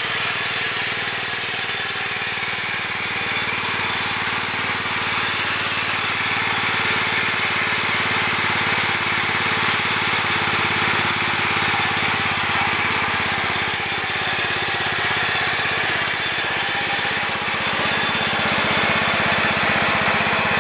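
John Deere 130 lawn tractor's Kawasaki OHV engine running steadily at an even speed after a cold start.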